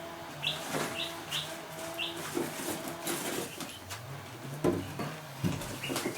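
A small bird chirping in short, high, repeated notes, about two a second, over a low steady hum. Scattered sharp knocks come through it, louder near the end.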